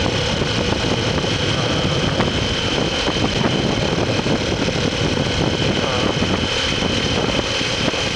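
Motorcycle under way on the road: steady wind rush and road noise over the running engine, with a steady high tone.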